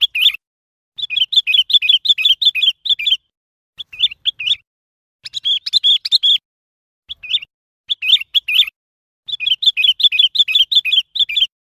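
Sooty-headed bulbul singing: short, quick chirpy notes in bursts of half a second to two seconds, broken by brief pauses.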